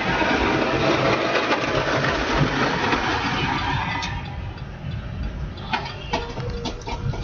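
A vehicle engine running under a loud rushing, wet noise of tyres in slush, which eases off about halfway through, with a few light clicks near the end.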